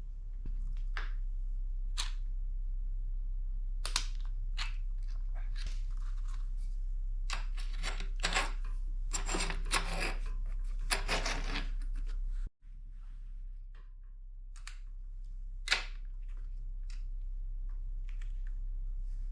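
Small clicks and rustles of hand-working tiny hydraulic brake parts and tools during assembly of a new olive into the brake hose fitting, irregular and scattered, over a steady low hum. A denser patch of rustling comes a little past the middle, the sound breaks off abruptly for a moment, and a sharp click follows a few seconds later.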